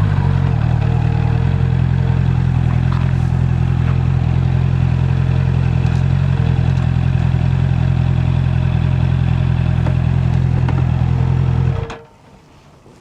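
Honda CB650R's inline-four engine idling steadily, then cutting out abruptly about twelve seconds in as it is switched off.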